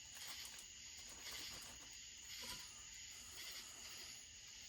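Quiet workshop background: a faint, steady high-pitched hiss with a few faint light clicks, as of small parts handled on a bench.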